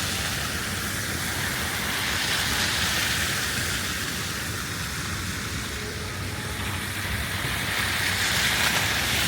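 Traffic on a wet, slushy city street: the hiss of tyres on slush that swells and fades as cars pass, over a low rumble.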